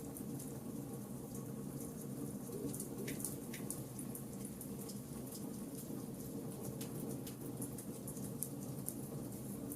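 Charcoal campfire burning and crackling, with frequent small, sharp snaps over a steady low background.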